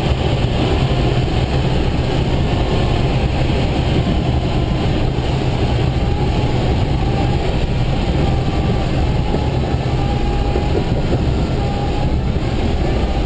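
Loud, steady rumble and rushing airflow inside a light aircraft's cockpit in flight.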